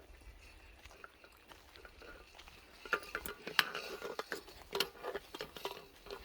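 Footsteps on a forest trail: a faint low rumble, then from about three seconds in a run of irregular sharp clicks and scuffs.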